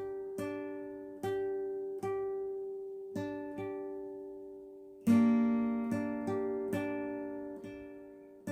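Acoustic guitar played by a self-taught beginner, one chord strummed slowly and unevenly over and over, each strum left to ring out. The loudest strum comes about five seconds in.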